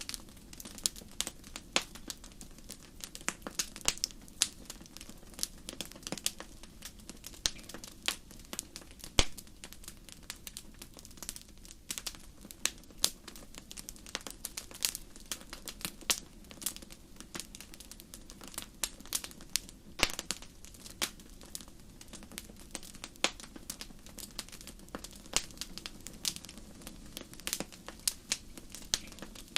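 Wood fire crackling in a fireplace: irregular sharp pops and snaps over a low, steady burning rumble.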